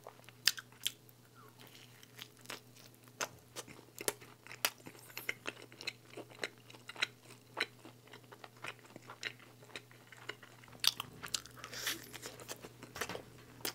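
A person chewing and biting thin-crust pizza: scattered sharp, crunchy clicks from the crust between mouthfuls, with a fresh bite near the end.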